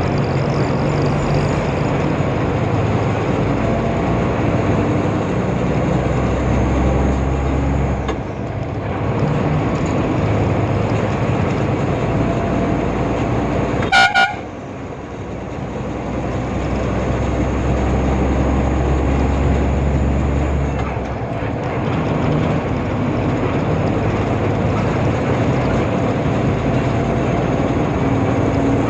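Truck driving along the road, with steady engine and road rumble. A short horn blast sounds about halfway through and is the loudest moment.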